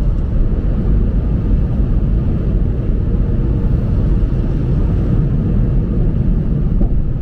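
Steady low rumble from a car in a drive-through car wash tunnel, with no distinct strokes or changes in pitch.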